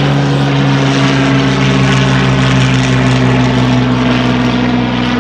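Hawker Hurricane's Rolls-Royce Merlin V12 piston engine droning loudly as the warbird flies past, its pitch sinking slowly and the sound easing slightly near the end.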